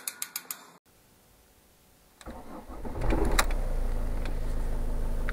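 A car engine started with the ignition key: clicks about two seconds in, a brief crank, and the engine catches about three seconds in and settles into a steady idle. Rapid ratchet-like ticking at about six a second stops abruptly under a second in.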